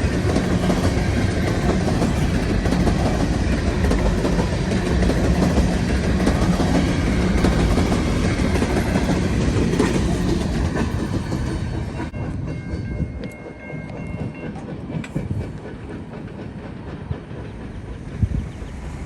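Freight cars of a long empty potash train rolling past, wheels clattering over the rail joints. The rumble fades noticeably about two-thirds of the way through as the train draws away.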